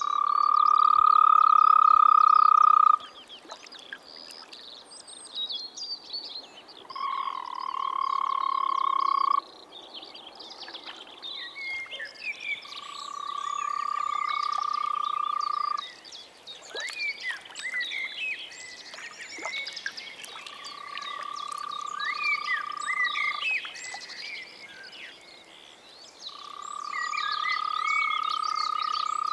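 European green toads (Bufotes viridis) giving their long, even-pitched trilling calls: five calls of about three seconds each, the first the loudest. Short, higher chirps fill the gaps between them.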